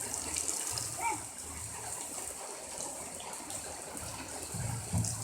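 Steady rain falling, with water running and splashing.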